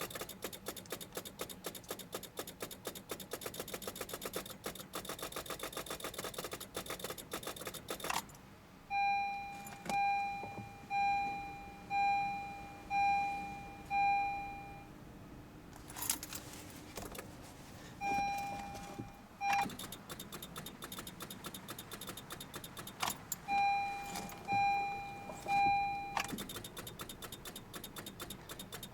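Honda CR-Z's starter solenoid chattering in rapid, even clicks without cranking the engine, the sign of a battery too weak in deep cold to turn the starter over. The clicking stops twice for the car's dashboard warning chime, which dings about once a second, six times and later twice and three times.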